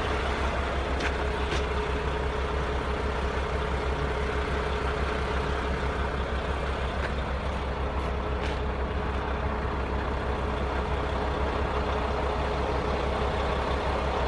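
Truck engine running steadily, a deep rumble with a constant hum and a few faint ticks.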